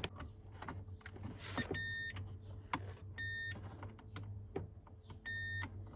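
Electronic warning beeper in a 2007 Ford Territory sounding three short beeps at uneven intervals of about one and a half to two seconds, with faint clicks in between.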